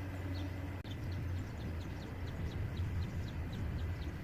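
Quiet background: a steady low hum with faint, short high chirps repeating about three times a second.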